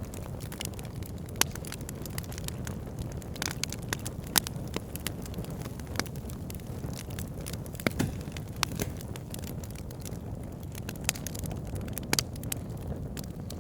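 Wood fire crackling, with irregular sharp pops over a steady low rumble of the flames.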